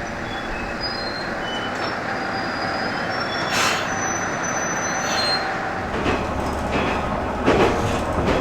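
Diesel railcar of the Tenryu Hamanako Railway running along the track, a steady rail noise with short high-pitched wheel squeals. A deeper rumble comes in about six seconds in, with a couple of knocks from the wheels near the end.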